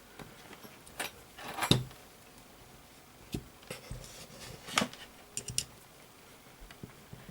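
A string of light clicks and taps: multimeter probes and small tools knocking against a power-supply circuit board as it is handled and tested, with no continuity beep.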